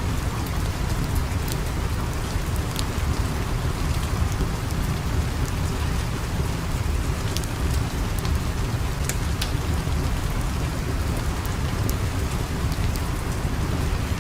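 Steady heavy rain, a constant hiss over a deep rumble, with scattered sharp ticks and crackles.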